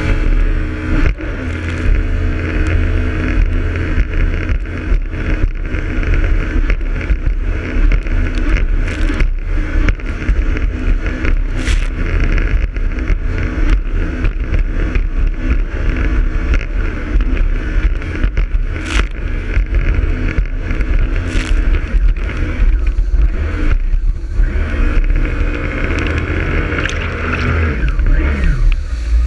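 Jet ski engine running steadily, with heavy wind rumble on the microphone and frequent short knocks.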